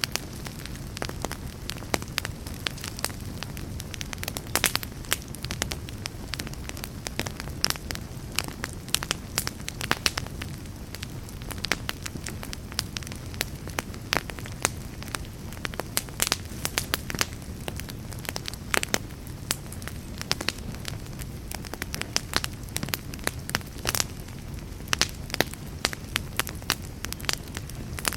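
Wood fire in a fireplace crackling, with irregular sharp pops and snaps over a steady low rumble of burning logs.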